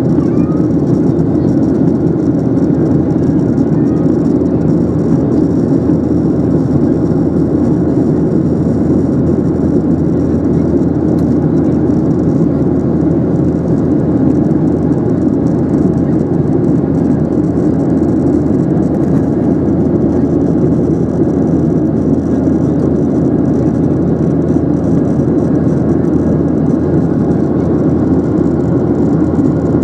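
Steady cabin noise inside a Boeing 737-800: the even drone of its CFM56-7B turbofan engines and rushing air, strongest in the low-mid range and unchanging throughout.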